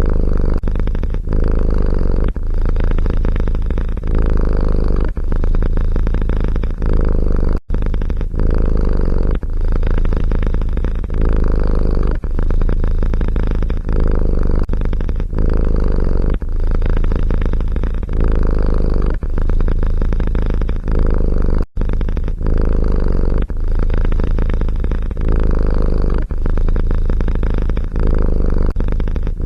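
Domestic cat purring close up, a low rumble that swells and eases in even cycles about once a second. It cuts out sharply for an instant twice, about 8 and 22 seconds in.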